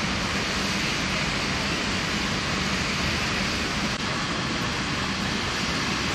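Steady rushing hiss of heavy rain, with traffic on wet roads mixed in.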